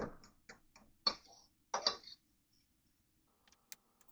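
A few light clicks and taps of kitchen utensils and cookware, most of them in the first two seconds, then a faint steady hum with a few sharp clicks near the end.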